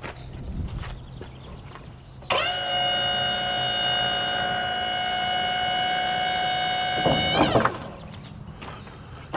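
Hydraulic pump on a Wood-Mizer LT35HD sawmill running while a hydraulic control (clamp or toe board) is lowered: a steady whine that starts abruptly, holds for about five seconds, surges briefly, then winds down as the control is released. A few light knocks come before it.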